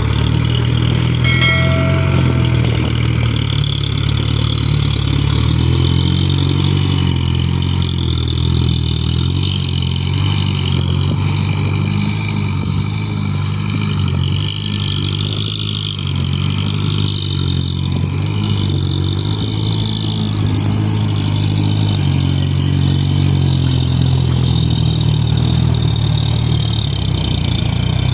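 Isuzu dump truck's diesel engine running steadily under the load of a full bed of soil, its pitch wavering a little throughout. Near the start there are a few clicks and a short high note.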